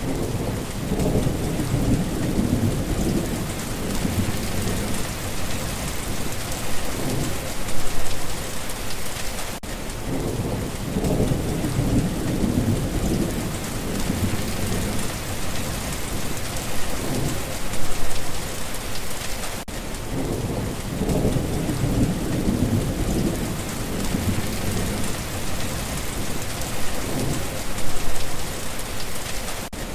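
Steady heavy rain pattering with low rolling thunder rumbles. The same ten-second stretch repeats three times, each with a rumble swelling near its start.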